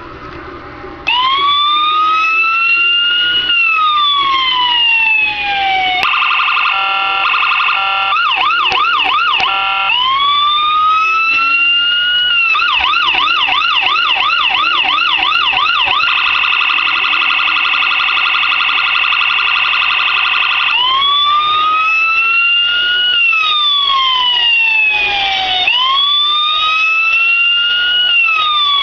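Electronic police siren starting about a second in, cycling through modes: slow rising-and-falling wail sweeps, a fast yelp warble, a long steady tone, then the wail again.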